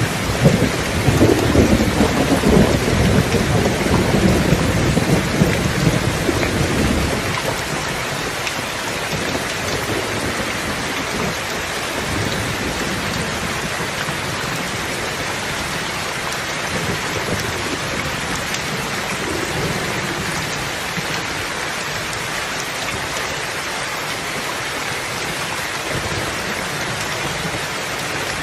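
Steady rain falling, with a low rumble of thunder that dies away about seven seconds in.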